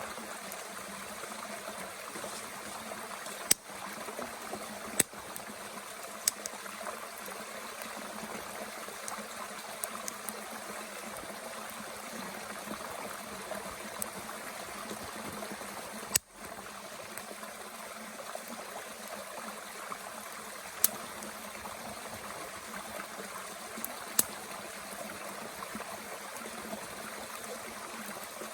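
A stream flowing steadily, with a few sharp pops from wood burning in a small twig stove scattered through it.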